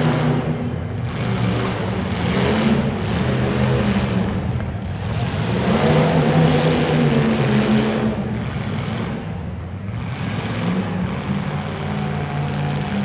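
Demolition derby car engines running loud and revving, their pitch rising and falling several times.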